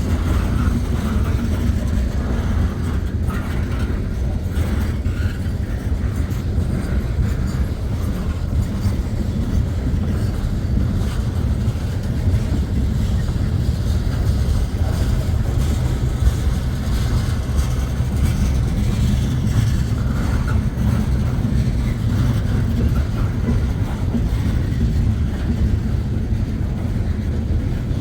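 A long freight train rolling past, a steady low rumble of wheels on rail.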